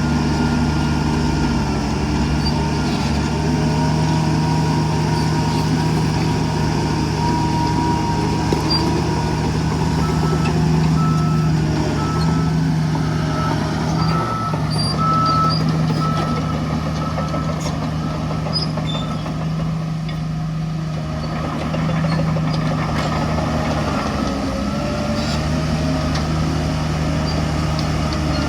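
Heavy diesel earthmoving machinery running steadily. A reversing alarm beeps about once a second for several seconds in the middle.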